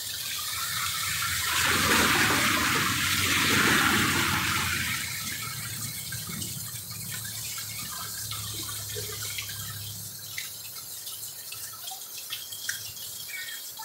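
Heavy rain falling on a street and roofs, a steady rushing of water that swells for a few seconds near the start and then eases to a steadier level.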